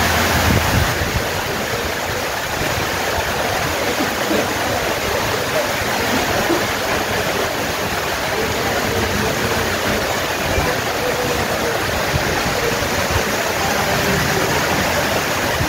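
Rain falling steadily, an even hiss, possibly with running rainwater mixed in, with no breaks.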